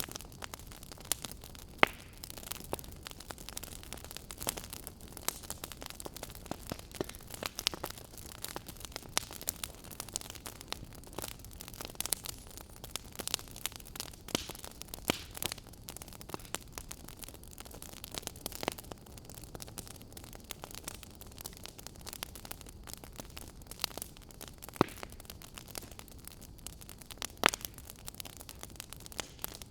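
Wood fire burning in a fireplace: a steady low rumble and hiss with irregular crackles and occasional louder pops.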